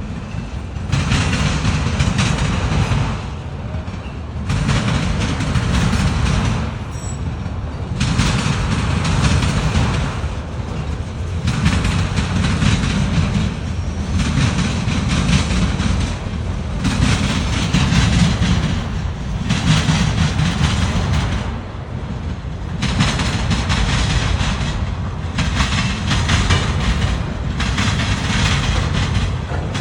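Slow freight train rolling past, its cars going by one after another. The rumble and wheel noise swell and dip every few seconds.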